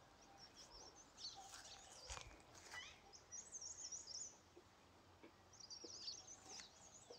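Faint chirping and twittering of small birds: rapid high calls, bunched about three seconds in and again near the end.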